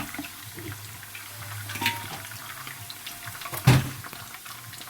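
Diced chicken breast and egg sizzling in a frying pan, with a utensil clicking against the pan and one sharp knock about three and a half seconds in.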